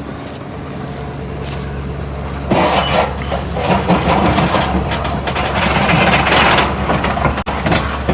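A vehicle engine idling steadily. About two and a half seconds in, a much louder, uneven rushing noise starts suddenly and carries on.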